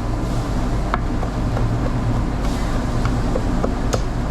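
A knife knocking lightly and irregularly on a cutting board as grilled teriyaki chicken is sliced, about eight short taps. Under it runs a steady low hum of running equipment.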